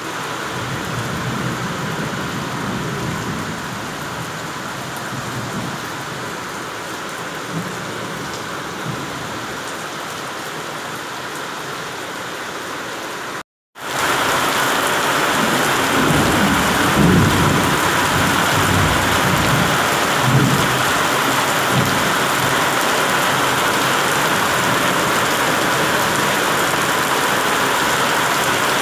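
Heavy rain falling steadily. The sound drops out for a moment about halfway through, then returns louder, with low thunder rumbles for several seconds.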